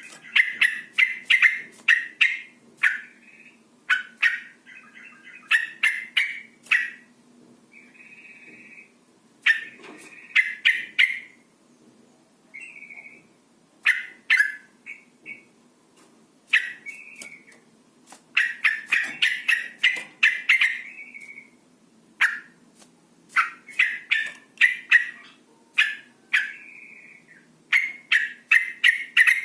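Yellow-vented bulbul (trucukan), a female, giving repeated bursts of rapid chattering 'cuk-cuk' calls, each a quick run of sharp notes, with pauses and a few short slurred notes between. This is the excited 'ngecuk' call used to provoke males into calling. A faint steady low hum sits underneath.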